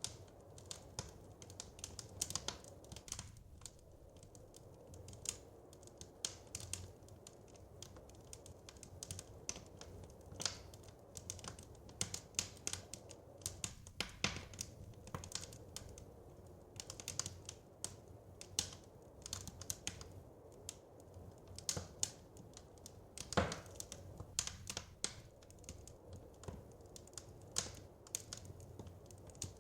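Wood fire crackling in a fireplace: irregular sharp crackles and pops, several a second at times, over a low steady rumble, with one louder pop about two-thirds of the way through.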